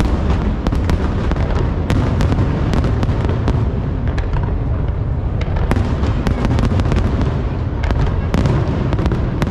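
Fireworks display going off: continuous low booming with many sharp cracks, coming in quick volleys several times a second.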